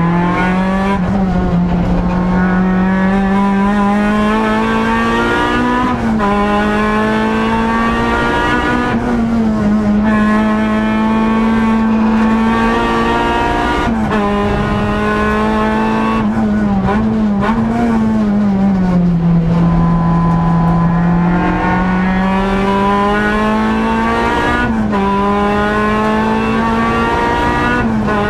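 Honda Civic EG race car's four-cylinder engine heard from inside the stripped cabin, running hard at high revs under racing load. The pitch climbs slowly and dips sharply at each gear change or lift, about half a dozen times.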